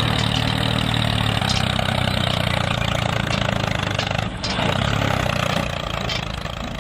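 An engine runs steadily with a low hum, with a brief drop about four seconds in.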